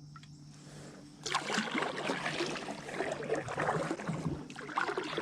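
Kayak paddle splashing and dripping through the water in repeated strokes, starting about a second in.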